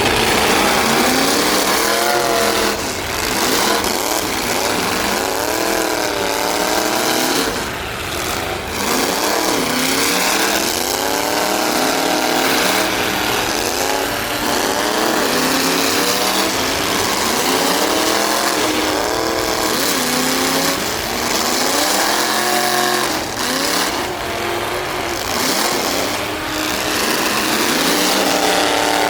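Big trucks' engines revving hard, several at once, their pitch rising and falling again and again.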